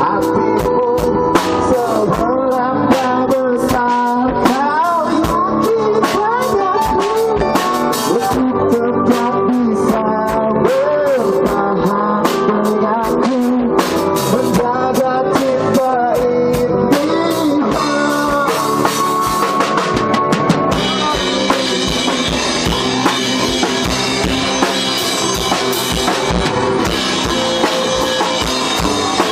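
Live band playing a pop-rock song on drum kit, guitar and bass, with a bending, wavering lead melody over regular drum hits. About twenty seconds in, the cymbals open up and the sound gets brighter and fuller.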